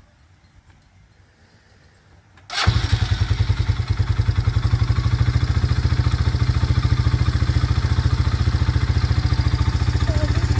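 ATV engine starting about two and a half seconds in and then idling steadily.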